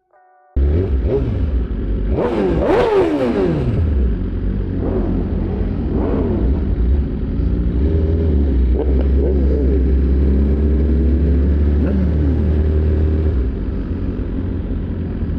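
High-performance vehicle engines revving and running. The sound starts abruptly about half a second in, with several rising and falling revs around two to three seconds in, more revs after that, and a steady deep running from about eight to thirteen seconds.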